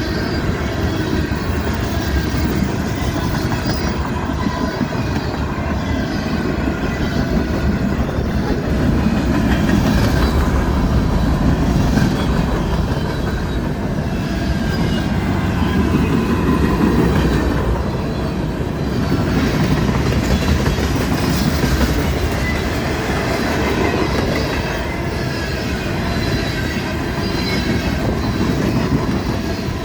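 Railroad cars rolling past close by: a continuous rumble with the wheels clattering over rail joints, and thin high wheel squeal at times.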